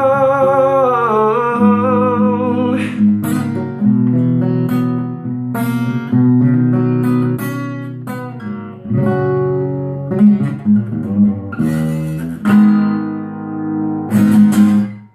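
A singer holds the song's last sung note with vibrato, and it fades about a second and a half in. Acoustic guitar then plays on alone with chords struck every second or so, until the music stops abruptly at the very end.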